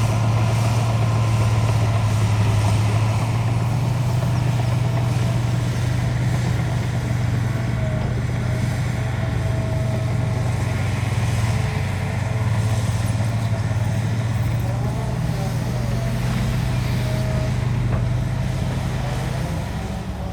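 Heavy diesel construction machinery running steadily at a constant engine speed, with a fainter whine wavering above the engine's low hum.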